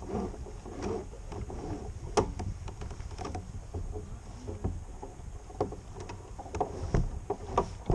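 Kayak on moving water: irregular small knocks and splashes against the hull over a steady low rumble.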